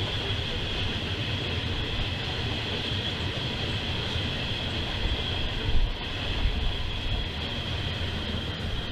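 Loaded freight flatcars carrying steel coils rolling past, a steady rumble and rattle of steel wheels on the rails.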